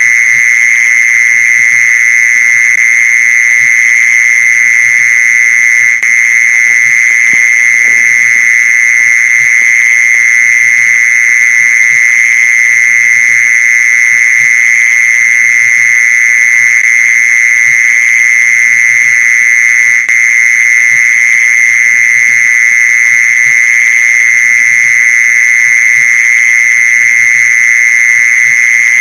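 Mole cricket's continuous trilling call: a steady, loud, high-pitched buzz that holds one pitch without a break.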